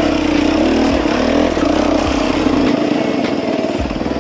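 Dirt bike engine running at low speed, its revs rising and falling.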